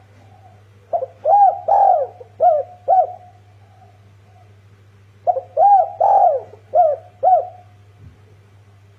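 Spotted dove cooing: two phrases of about five arched notes each, the second starting about four seconds after the first, over a steady low hum.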